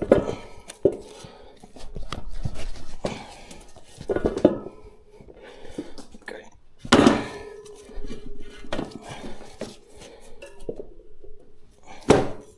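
Metal tyre levers and the motorcycle wheel rim clanking and scraping as the tyre is worked on the rim, with a few sharp metallic knocks, one of them followed by a brief ring.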